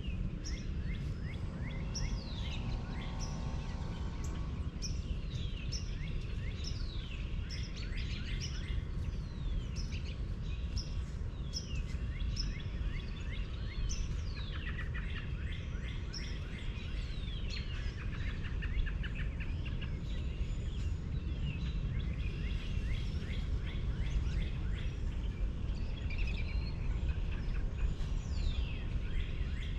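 Several birds singing and calling, many quick downward-sliding chirps, over a steady low rumble.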